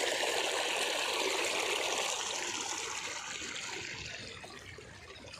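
Small stream flowing and trickling over rocks, a steady rush of water that fades away over the last couple of seconds.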